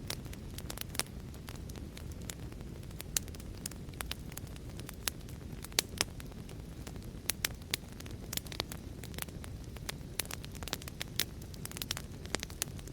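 Wood fire crackling in a fireplace: a steady low rumble of flames under irregular sharp snaps and pops, several a second, a few of them noticeably louder.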